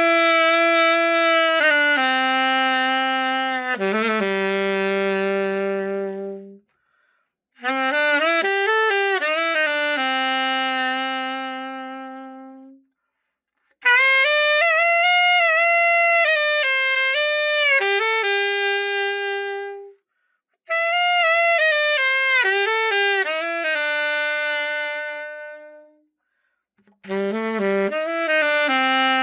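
Alto saxophone, a Rampone & Cazzani Two Voices, played in short melodic phrases. There are five phrases, each ending on a long held note that fades, with brief pauses between them.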